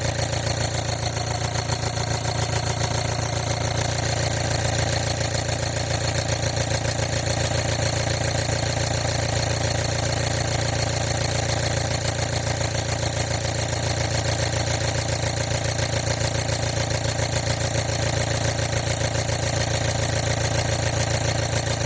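An engine idling steadily with a fast, even pulse that holds unchanged.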